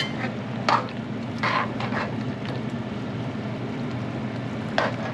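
A pot of stew chicken boiling on a stovetop burner with a steady background hum, and a few short knocks, about a second in, again shortly after, and near the end.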